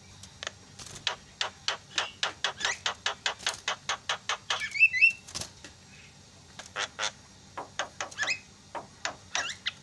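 Javan myna (jalak kebo) chattering: a rapid run of sharp, clipped notes at about four a second, a short wavering whistle about halfway, then after a brief pause another, looser series of sharp notes.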